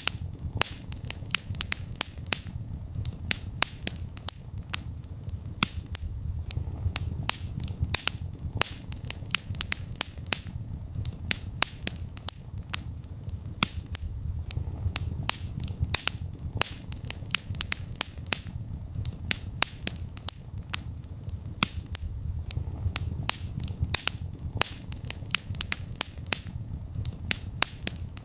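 Wood fire in a fireplace crackling: sharp pops and snaps come several times a second at irregular intervals over a steady low rumble of the flames.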